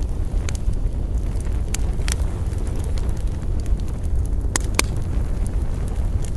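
Campfire crackling: sharp pops and snaps scattered irregularly, the strongest pair about four and a half seconds in, over a steady low rumble.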